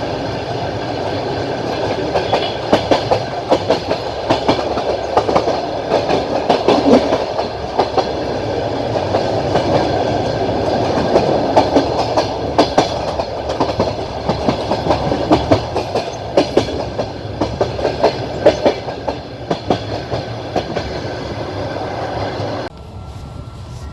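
Train wheels clattering over rail joints, heard from inside a moving passenger train through its window: a steady running rumble with clusters of sharp knocks all through. The rumble drops off abruptly near the end.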